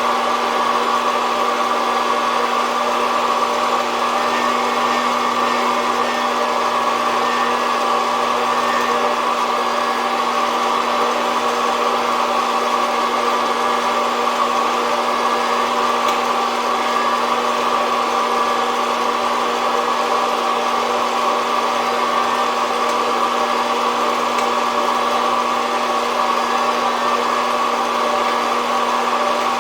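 SOUYI SY-121N hot-air coffee roaster running steadily, its fan blowing hot air through the beans with a constant whirring hum.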